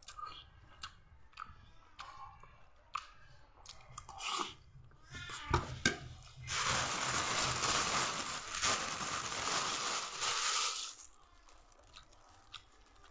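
Close-up chewing of crunchy bitter melon (ampalaya), with scattered crunches and mouth clicks. About six seconds in, a loud steady hiss starts and lasts about four seconds before the chewing clicks resume.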